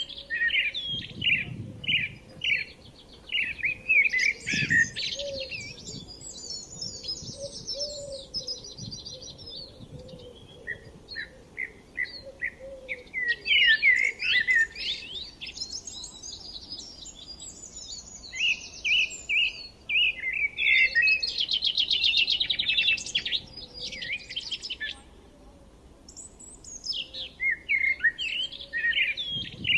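Birds chirping and singing: runs of short, quick chirps overlapping with fast high trills, several calls at once, easing off briefly about three-quarters of the way through. A couple of dull low thumps come in the first few seconds.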